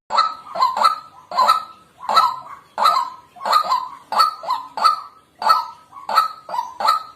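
White-breasted waterhen calling over and over in a steady rhythm, about two calls a second.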